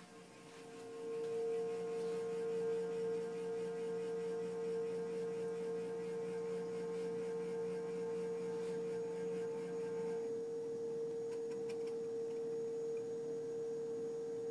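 Refrigerator giving off an awful steady whining hum, one held tone with fainter overtones; a lower part of the hum drops away about ten seconds in. The uploader takes the sound as a sign the fridge is breaking.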